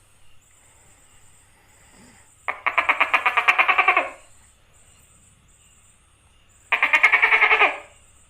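Tokay gecko calling: two rapid pulsed, rattling calls, the first about a second and a half long and the second just over a second, about four seconds apart.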